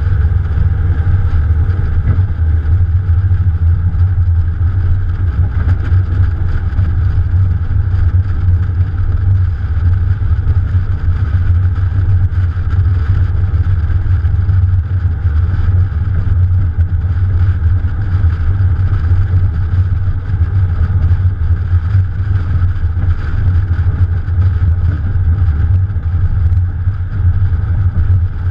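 Morgan Plus 4's Ford 2.0-litre four-cylinder engine running at a steady, low drone under way, mixed with wind and road noise, heard from a camera on the bonnet.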